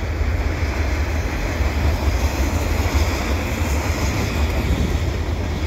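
Freight cars of a passing train rolling by: a steady rumble of steel wheels on the rails, without a break.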